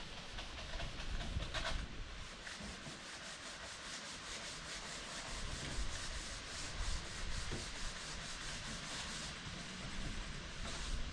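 Sandpaper rubbing over a surface in quick, even back-and-forth strokes, about five a second.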